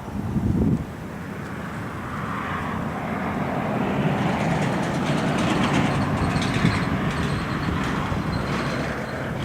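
Airliner's engines growing louder as it comes in to land and passes, a broad rushing noise with a faint high whine that swells about two seconds in and stays loud. A gust buffets the microphone just at the start.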